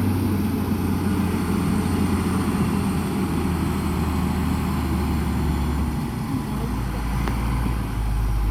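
Heavy diesel engine of earthmoving machinery running under load, its low note dropping in pitch about three seconds in and again about six seconds in.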